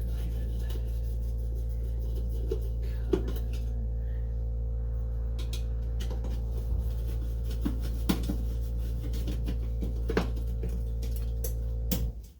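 A steady low hum runs under scattered light clicks and clinks of a screwdriver and tools on metal as a headlight screw is worked. The hum cuts off suddenly near the end.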